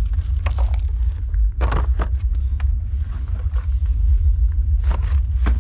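A steady low rumble, with scattered sharp knocks and clicks from handling parts during work on a car.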